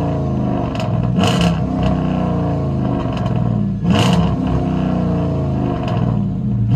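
A 5.7L HEMI V8 with a straight-piped true dual exhaust, heard from inside the car's cabin. It runs steadily and rises briefly about a second in and again about four seconds in.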